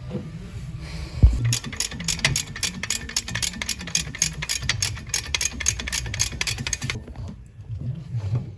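Metal work on a car's front drive shaft at the wheel hub: a heavy thump about a second in, then a rapid, uneven run of sharp metallic clicks lasting about five seconds, which stops shortly before the end.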